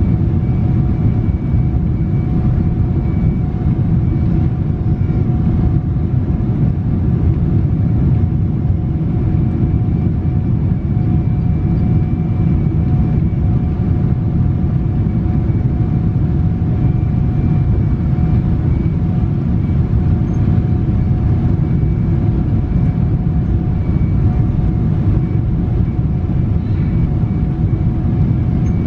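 Steady low rumble of a Boeing 777-300's engines and rushing air, heard inside the passenger cabin, with two faint steady whines on top.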